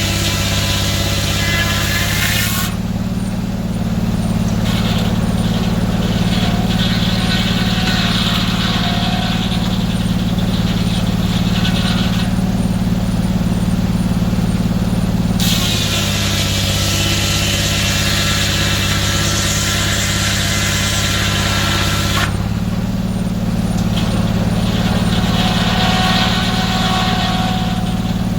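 Sawmill engine running steadily under load. A higher, ringing whine sounds at the start and again through the middle, and the engine note shifts each time it comes and goes.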